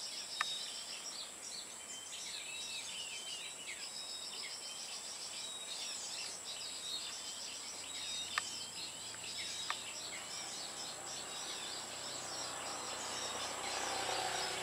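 Small songbirds chirping and twittering in quick, overlapping short calls over a steady high-pitched insect drone, with three sharp clicks: one about half a second in and two more near the middle.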